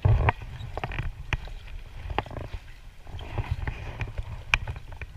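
Irregular knocks and clicks on a kayak as it drifts, coming every half second to second, over a steady low rumble.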